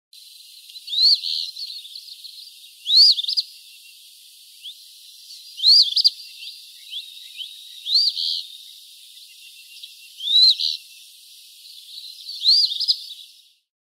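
Eastern phoebe singing: six short, high, raspy songs about two seconds apart, with a few softer notes between them.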